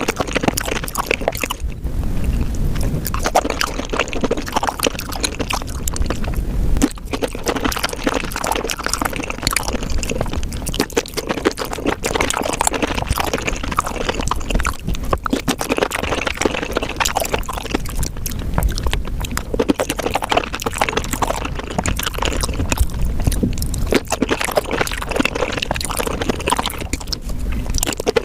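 Close-miked wet chewing, smacking and slurping of raw shrimp, sped up so the mouth sounds run together into a dense, rapid stream of wet clicks.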